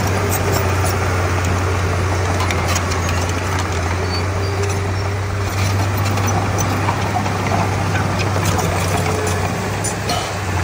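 Komatsu D31P bulldozer's diesel engine running steadily with a low drone, with scattered clicks and clanks over it.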